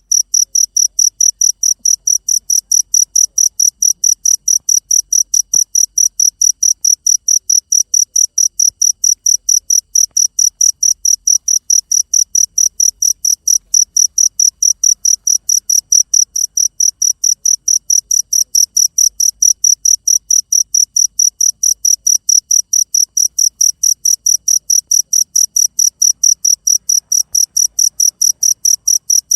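Cricket chirping steadily in a fast, even rhythm of about four short, high-pitched chirps a second.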